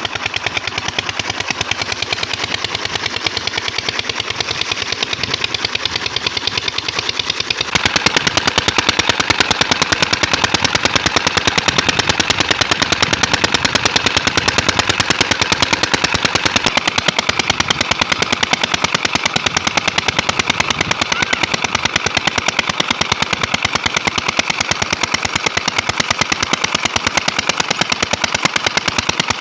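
12LD diesel engine running steadily, its exhaust beating in a rapid, even knock. It gets louder and sharper about eight seconds in.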